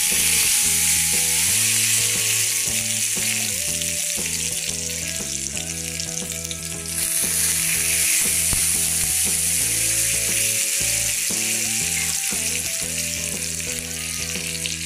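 Stuffed bitter gourds (karela) sizzling steadily as they shallow-fry in ghee in a pan. A tune of held notes plays quietly underneath.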